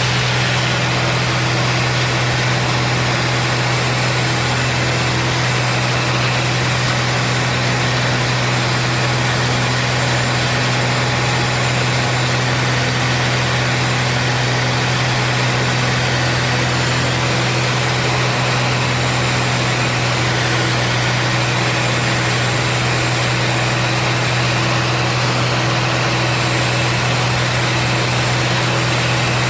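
Steady drone of a piston aircraft engine and propeller heard from inside the cockpit of a Zlin Z-226MS in flight, holding an even pitch and level throughout.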